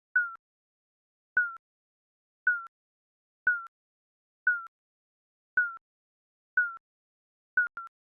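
Electronic countdown-timer beep sounding about once a second: short, slightly falling tones with silence between, and a quick double beep near the end.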